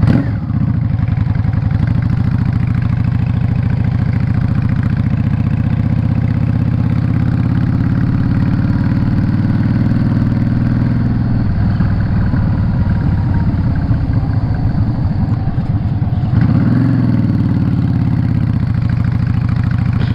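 Yamaha Drag Star 650 V-twin engine running while the motorcycle is ridden. The pitch climbs slowly, drops about halfway through, then rises and falls again briefly near the end.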